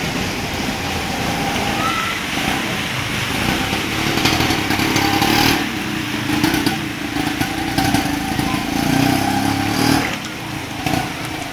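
Heavy rain falling steadily, with a motor vehicle engine passing through it, louder about a third of the way in and again near the end.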